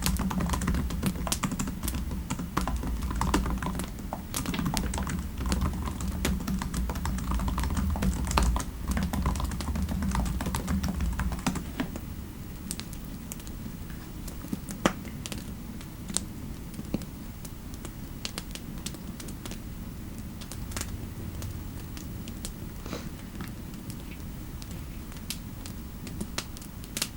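Typing on a computer keyboard, a fast run of key clicks for about the first twelve seconds. The typing then stops, leaving only scattered faint clicks over a soft steady hiss.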